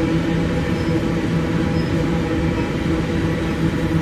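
Empty iron-ore wagons of a long freight train rolling past on the rails: a steady rumble of wheels on track with a low hum running under it.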